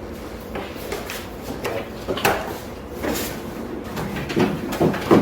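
Irregular clicks, knocks and scrapes of hardware being handled and set down, with a few louder knocks in the last second or so.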